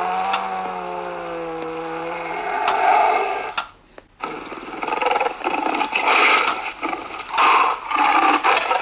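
Animatronic lion plush toy playing its recorded lion sound effects through a small speaker: first a held, pitched call, then after a short break a rougher, noisier growling roar.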